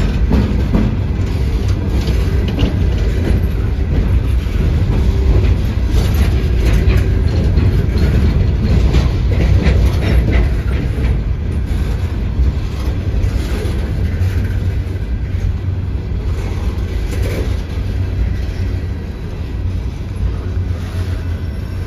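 Empty coal hopper cars of a Norfolk Southern freight train rolling past. The wheels clatter and click over the track in a steady low rumble that eases a little toward the end.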